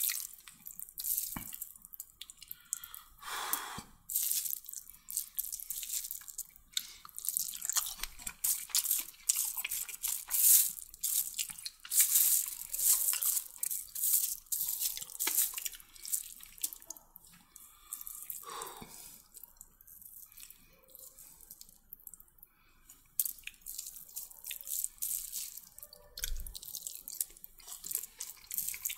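Close-up wet chewing and lip-smacking of a person eating chicken kottu roti: a dense run of short, moist clicks, with a quieter stretch about two-thirds of the way through.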